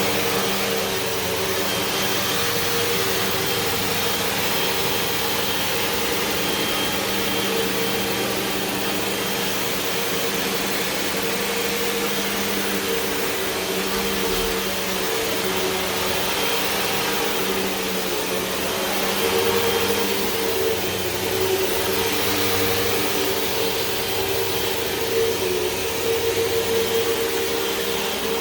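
A Hoover WindTunnel 2 Whole House Rewind corded upright vacuum cleaner running steadily with a motor hum and airflow hiss. It swells slightly in loudness twice in the second half.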